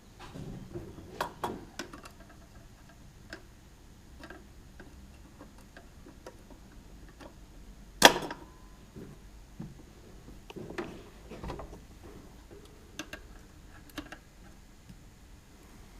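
Scattered small metallic clicks and knocks of hand tools and parts on an engine, with one sharp clink about halfway through that rings briefly.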